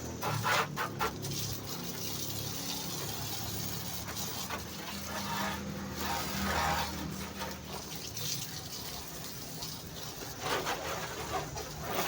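Water spraying and splashing against a truck being washed, a steady rushing sound with a low steady hum underneath.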